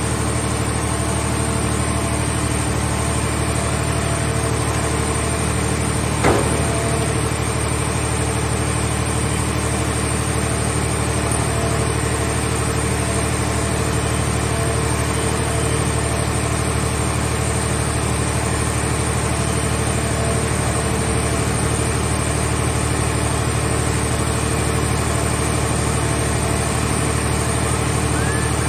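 Scrap car shell baler's power unit running with a steady engine drone, with one sharp knock about six seconds in.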